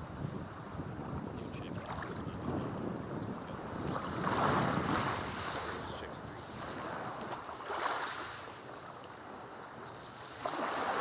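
Sea waves breaking on a black volcanic sand beach: a steady wash of surf that swells into a big surge about four seconds in, a shorter one near eight seconds, and another building near the end. Wind buffets the microphone.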